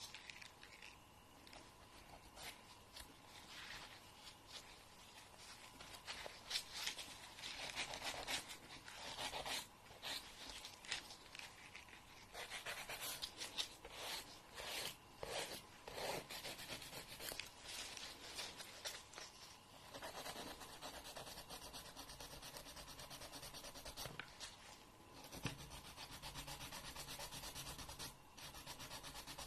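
Fingernails being filed: a nail file rasping across the nail in repeated, irregular strokes. The strokes come more densely for several seconds near the end.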